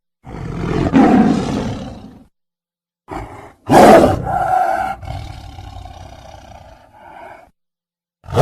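Tiger growling in a run of separate calls: one of about two seconds, a short one, then the loudest call, which trails off over about three seconds, another short one, and a fresh loud call starting at the very end.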